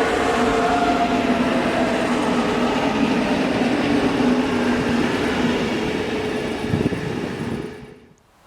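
A train passing close by: a loud rumble of wheels on rail with steady humming tones over it. The sound cuts off suddenly near the end.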